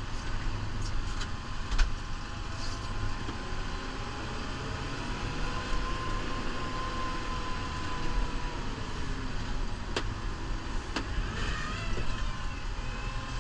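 New Holland Powerstar 75 tractor's diesel engine running steadily, heard from inside the cab while plowing deep snow, with a few sharp knocks.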